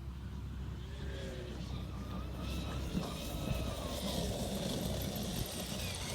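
Traxxas X-Maxx RC monster truck's Hobbywing 5687 1100kV brushless motor whining as the truck is driven at speed. The pitch rises and then falls.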